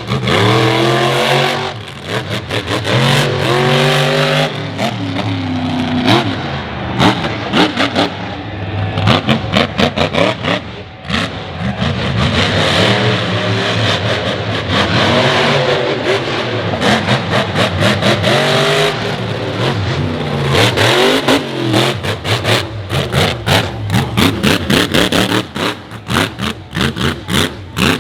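Monster truck engine revving hard, its pitch climbing and dropping again and again, with stretches of rapid popping.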